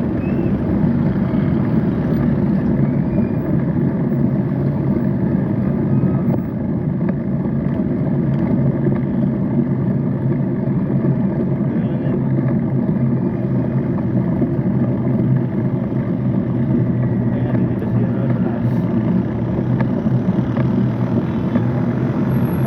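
Steady low drone of motor-vehicle engines and road noise during the ride, without a break or any distinct event.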